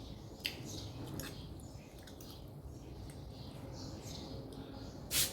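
Close-up eating sounds of noodles: wet slurping, chewing and smacking mouth noises in short repeated bursts, with a few sharp clicks and one louder, short slurp near the end.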